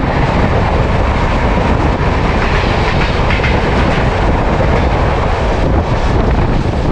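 Tamralipta Express passenger train running along the track: a steady, loud noise of wheels and coach on the rails.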